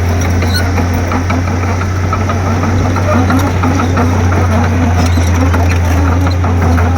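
Komatsu D31P crawler bulldozer's diesel engine running steadily, a constant low drone, with light scattered rattles and ticks over it.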